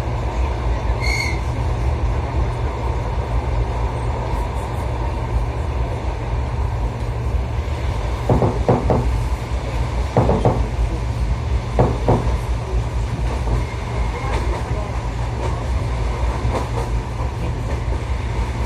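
Suburban electric train running, heard from inside the carriage: a steady low rumble, with a few sets of louder knocks in pairs and threes about halfway through.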